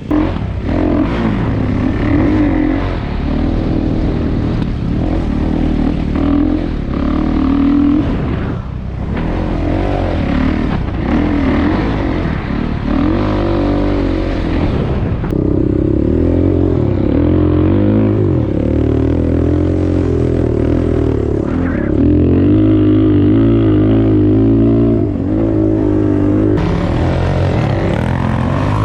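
Single-cylinder off-road engine of a dirt bike or sport quad under way, revving up and down as the rider throttles and shifts, with short drops in engine note about a third and halfway through.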